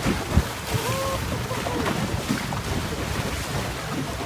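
Wind buffeting the microphone over the rushing and splashing of water around a slowly moving boat, a steady rough noise with no clear beat.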